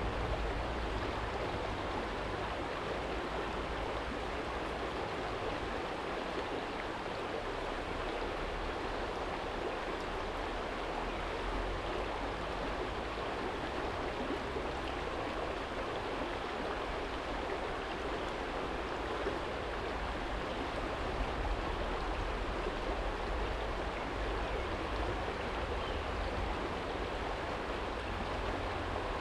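Small stream flowing and burbling over a stony bed, a steady rush of water with a low rumble underneath that swells and fades.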